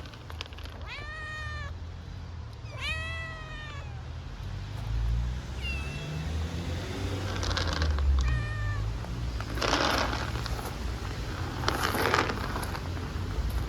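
Hungry stray kittens meowing: two long, arching meows in the first four seconds, then a few shorter, weaker ones. Brief noisy bursts come in the second half, over a low background rumble.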